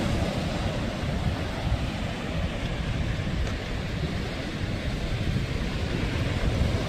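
Sea waves, a steady rushing wash of water, with wind rumbling on the microphone.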